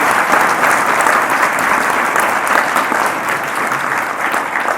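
Audience applauding: a dense, steady round of hand-clapping that begins to thin out near the end.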